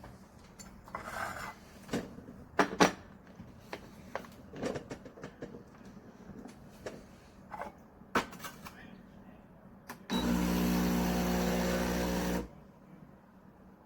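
Several clicks and knocks of handling, then an espresso machine's vibratory pump buzzing loudly and steadily for about two seconds before cutting off sharply.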